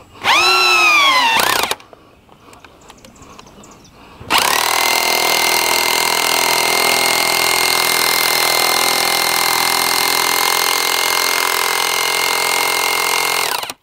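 Power drill running: a short burst of a bit over a second near the start, its pitch dipping and recovering, then from about four seconds in a steady high whine for about nine seconds that cuts off suddenly near the end.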